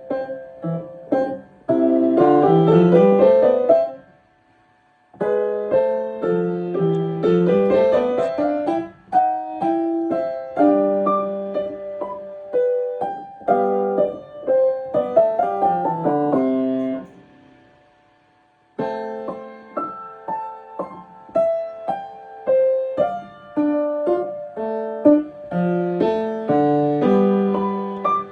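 Solo piano played in quick runs of notes that climb and fall like scales. The playing breaks off twice, once about four seconds in and again past the middle, and each time starts again, as in practice repetition.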